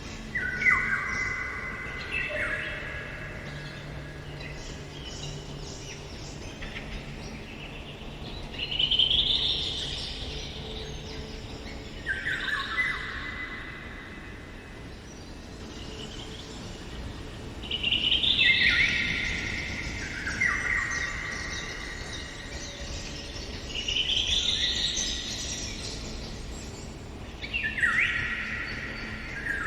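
Eurasian golden oriole singing: short whistled phrases of a few notes that step down in pitch, repeated every few seconds, over faint forest background noise.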